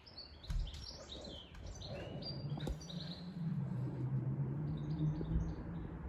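Small birds chirping, many short quick chirps, busiest in the first half and thinning out later. A low, wavering hum joins about halfway through.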